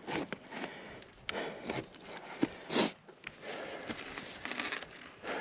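A mountain biker's breathing: irregular hard breaths, one stronger puff about three seconds in, mixed with sharp clicks and rattles of the bike over the dirt trail.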